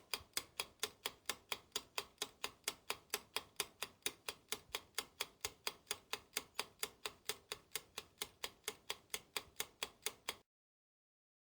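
Clock-style ticking sound effect, about four even ticks a second, cutting off abruptly about ten seconds in.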